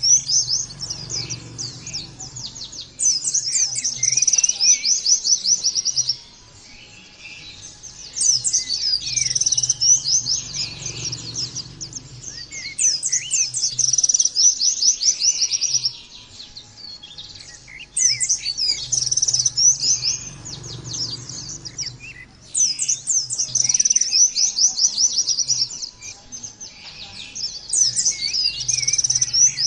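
White-eye (pleci) singing in fast, high, chattering phrases of many quick notes, each lasting about three to four seconds, repeated one after another with short pauses between.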